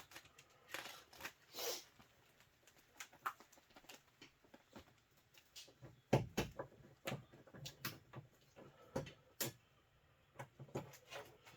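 Scattered light knocks, clicks and scrapes of a tight-fitting rear window panel being forced into its slots on a side-by-side's roll cage, with a heavier thump about six seconds in.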